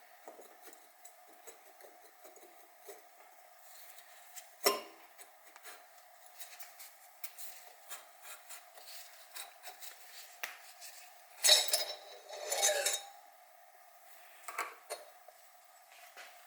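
Light clinks and taps of metal engine parts being handled on a workbench, with one sharp knock about five seconds in and a short clatter of metal on metal around twelve seconds in.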